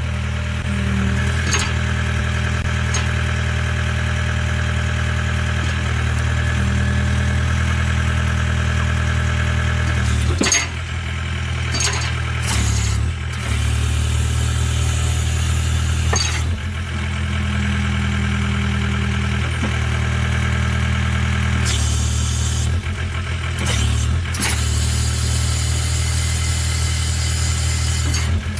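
John Deere 320D skid steer's diesel engine running steadily, its note shifting several times as the hydraulics are worked. A few sharp knocks come about ten, twelve and sixteen seconds in.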